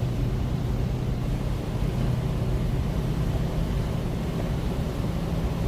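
Semi truck's diesel engine running steadily at highway cruising speed, heard from inside the cab with road noise.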